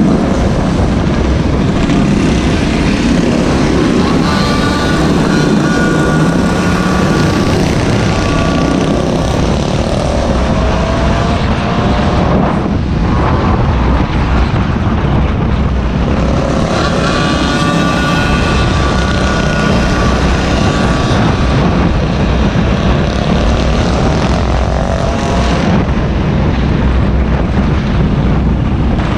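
Small engines of Gopeds and mini bikes running on the move, with a constant heavy rushing noise underneath. Twice, a higher buzzing engine note rises and falls as a machine revs.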